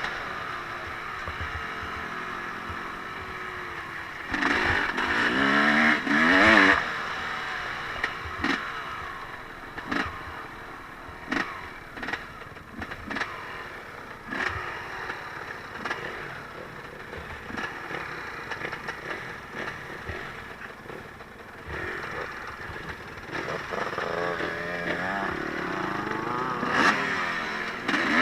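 Small off-road vehicle engine revving up and down, once about four seconds in and again near the end, with scattered sharp knocks and clatter in the quieter stretch between.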